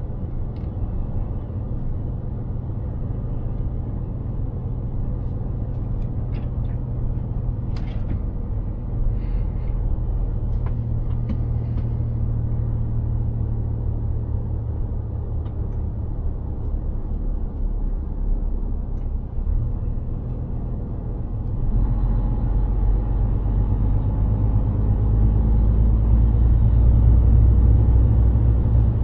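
Mercedes-Benz Actros 2763 truck's diesel engine running steadily on the move, a deep low hum mixed with road noise, with a few faint clicks early on. About three-quarters of the way through, the engine note steps up and grows louder as the truck pulls harder.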